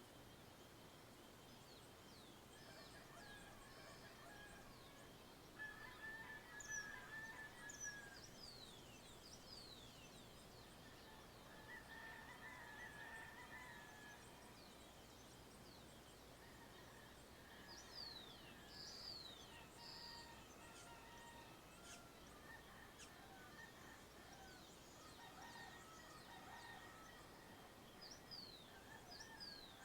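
Faint dawn chorus of several birds: quick high chirps that sweep downward, over lower warbling calls, coming in clusters, loudest about six to eight seconds in.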